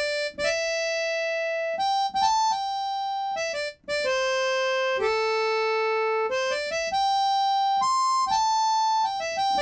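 Sampled harmonica preset from the Bismark bs-16i sound app playing a slow melody one note at a time. Mostly held notes step up and down through about a dozen pitches, with short gaps between some of them.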